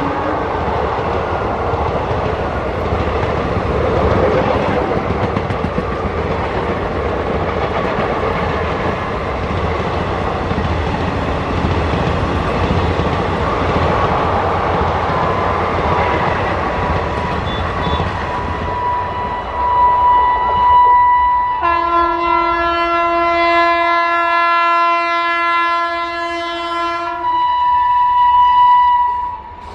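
Passenger coaches rumbling and clattering past on the rails at speed. From about 19 s an electric locomotive's air horn sounds, a long chord of several tones from about 22 to 27 s, then a shorter single-tone blast near the end as a WAP-7 electric locomotive approaches.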